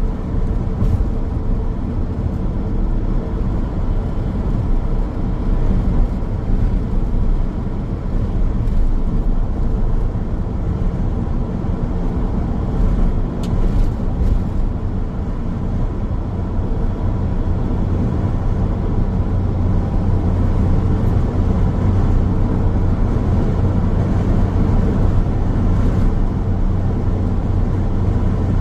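Car driving along a road at steady speed: a continuous low engine hum and tyre-on-road noise.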